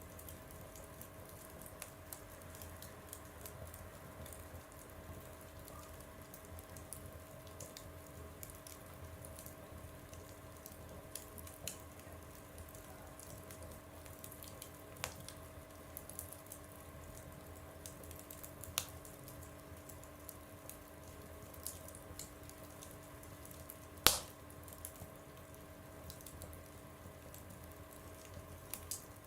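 Wood fire burning in a stove: soft, steady crackling with scattered small pops, and one sharp, much louder pop about 24 seconds in, over a faint steady hum.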